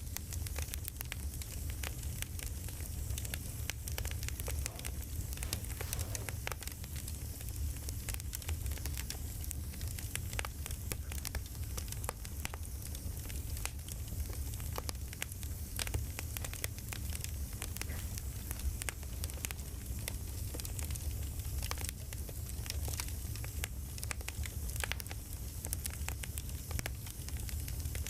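Campfire crackling: dense, irregular pops and snaps over a steady low rumble.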